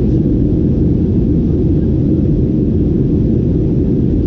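Steady, loud rumble of a Boeing 737-800 in flight, its CFM56-7B engines and airflow heard as a constant low drone inside the cabin.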